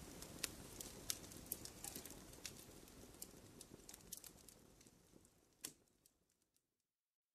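Wood fire crackling, with sharp irregular pops and snaps over a low rumble of burning. It fades out to silence about six seconds in.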